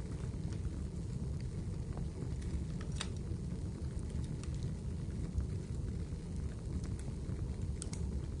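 Fire burning in a fireplace: a steady low rumble with scattered sharp crackles and pops, one about three seconds in and a couple near the end.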